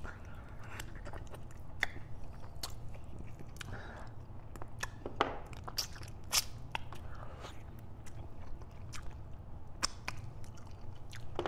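A person biting into and chewing a sauced buffalo chicken wing, stripping the meat off the bone, with many scattered sharp mouth clicks throughout.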